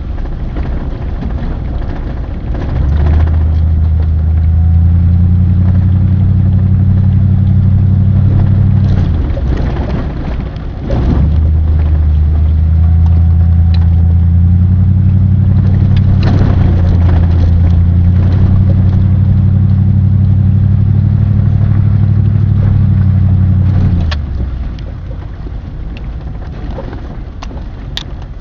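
A motor vehicle's engine running with a steady low drone that drops away briefly about a third of the way in, then returns and fades out near the end.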